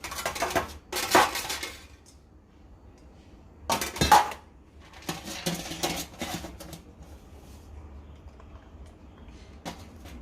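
Dishes and utensils clinking and clattering in several short bursts, the loudest about a second in and again around four seconds in.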